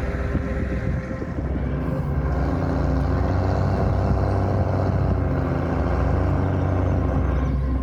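A vehicle or machine engine running steadily, getting louder about two seconds in and then holding.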